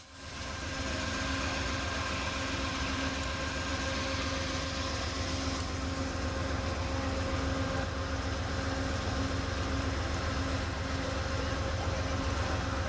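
Diesel passenger train standing and idling: a steady low engine rumble with a constant hum over it.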